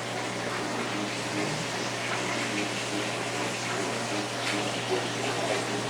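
Water running steadily from a tap or shower, an even rushing hiss, over a constant low hum and faint voices in the background.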